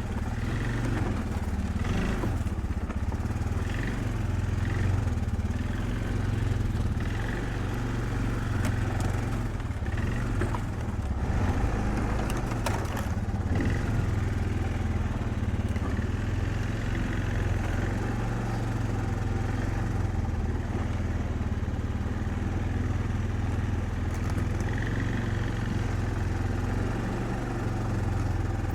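An engine running steadily at an even pitch throughout, with a few faint clicks and knocks over it.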